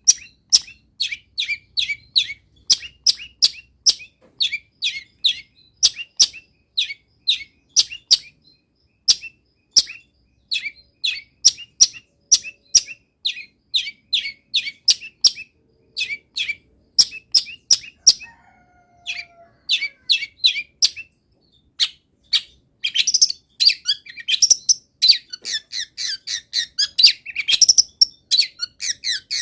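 Long-tailed shrike singing a fast run of short, sharp chirps, about three a second, made up of mimicked wild-bird calls. It breaks off briefly a little past halfway, then comes back denser and more varied near the end.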